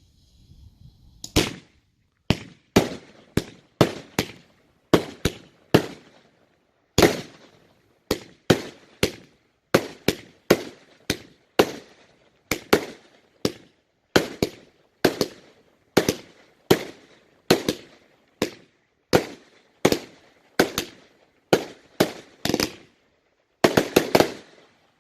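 Fireworks going off in a long series of sharp bangs, about two a second, each with a short echoing tail, ending with a quick cluster of bangs near the end.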